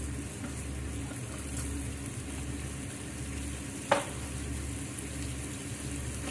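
Pork sautéed with garlic, onion and bagoong shrimp paste sizzling steadily in a wok. A single short, sharp sound cuts in about four seconds in.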